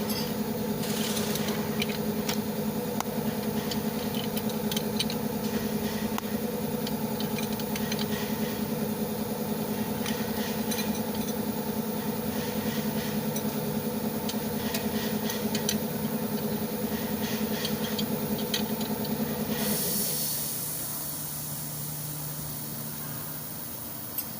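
A motor running steadily with a hum and many small rattling clicks, which winds down and shuts off about twenty seconds in, leaving a quieter, lower hum.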